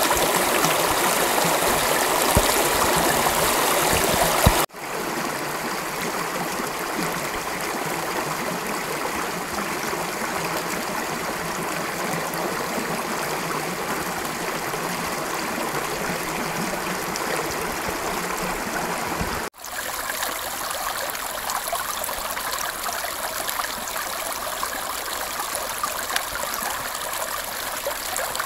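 Creek water running over rocks: a steady rushing and babbling. It changes abruptly twice, about five and twenty seconds in, from a fuller, louder flow with more low rumble to a thinner, brighter trickle.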